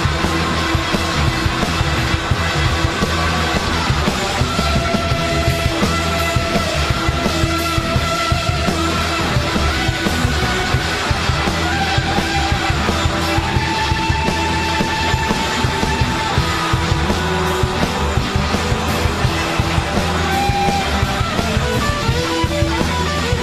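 Live blues-rock band playing, with an electric guitar solo of sustained, bending lead notes over a steady rhythm section.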